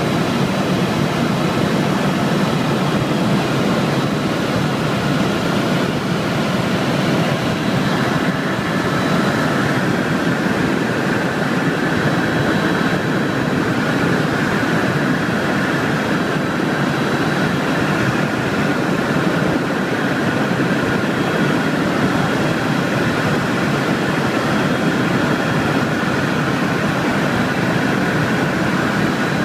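Helicopter in flight: steady engine and rotor noise with a thin high whine, unchanging throughout.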